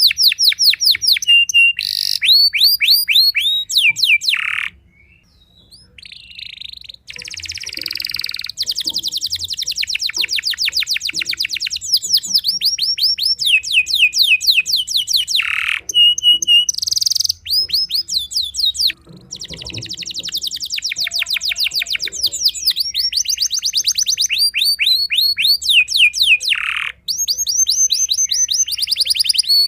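Domestic canary singing at full volume: long rapid trills of repeated falling notes, rolls and held whistles, with a pause of about two seconds near the start.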